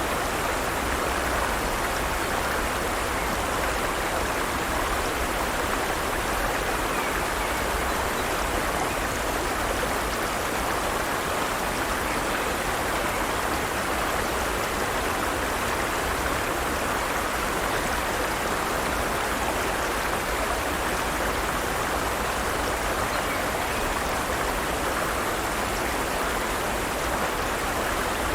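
Forest stream running steadily over rocks, an even rush of water with no changes.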